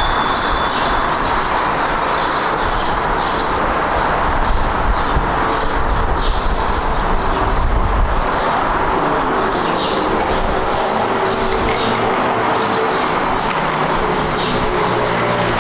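Jet airliner engines running with a loud, steady roar. About halfway through, steady low humming tones come in under the roar. Small birds chirp over it throughout.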